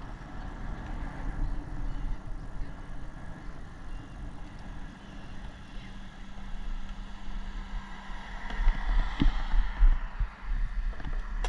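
Traffic-like rumble with wind buffeting the microphone in low gusts, growing louder about eight seconds in.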